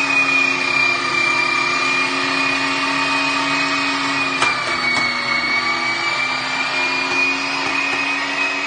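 Electric meat grinder's motor running with a steady whine. About halfway through its pitch dips slightly for a second, and two sharp clicks are heard.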